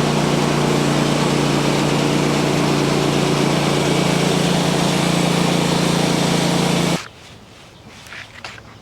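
Engine-driven machine running steadily at constant speed, loud and close, cutting off abruptly about seven seconds in.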